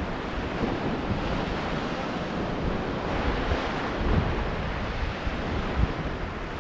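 Whitewater of the Ganges rushing through a rapid around a raft, a steady wash of water noise with wind buffeting the microphone.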